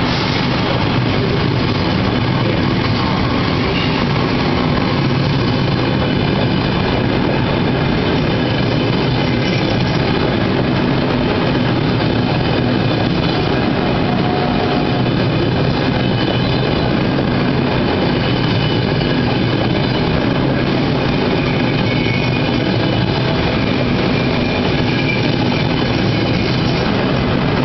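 Trenitalia electric passenger train rolling past along a platform: a steady, loud running noise of wheels on rails with a constant hum.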